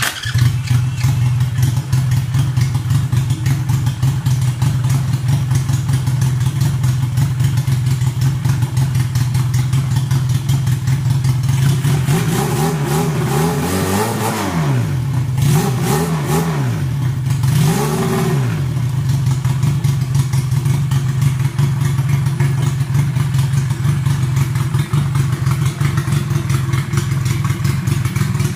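Home-built 250cc two-cylinder engine, made from Honda Wave motorcycle parts, fires up and idles steadily. About halfway through, the throttle is blipped several times, and each time the engine revs up and drops back to idle.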